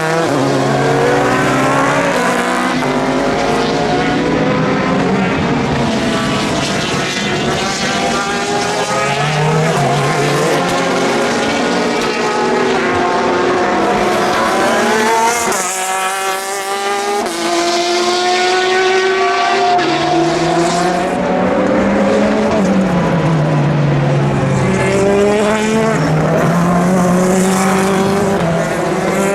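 Several endurance race cars passing on track, their engines overlapping and climbing in pitch, breaking off at gear changes and falling again, one car after another.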